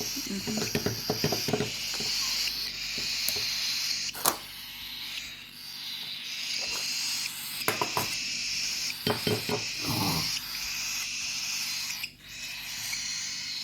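Nestling birds begging with a raspy hiss, coming in repeated stretches of a second or two, with a few sharp clicks of handling in between.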